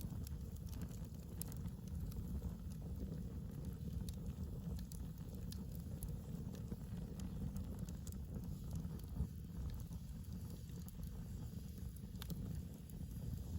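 Wood fire burning in an earthbag fire pit, crackling with scattered sharp pops over a steady low rumble.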